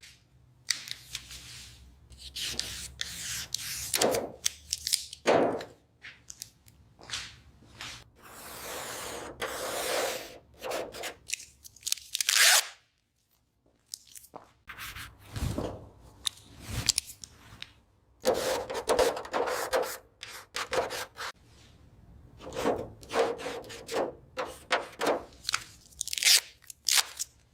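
A run of irregular scraping and rubbing strokes, some short and some drawn out over a second or two. There is a brief pause about halfway through, followed by two sharper knocks.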